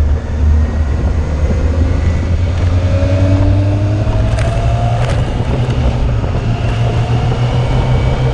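Yamaha Fazer 600 inline-four motorcycle engine running under way, its pitch rising gently for a couple of seconds as it picks up speed, with two brief clicks about halfway through.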